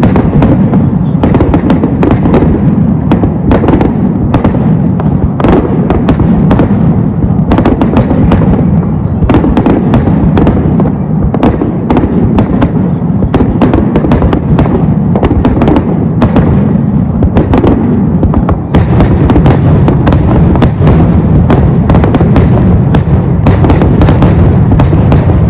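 Fireworks finale: a dense, continuous barrage of shell bursts and crackling, bang upon bang with no pause, over a steady low rumble.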